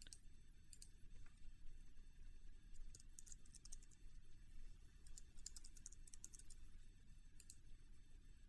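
Faint typing on a computer keyboard in several short runs of keystrokes, with pauses between them, as text is entered into form fields.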